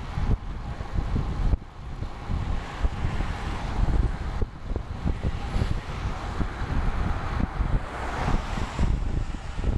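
Wind buffeting the microphone of a camera on a moving road bike: an irregular low rumble of gusts over a steady rushing hiss.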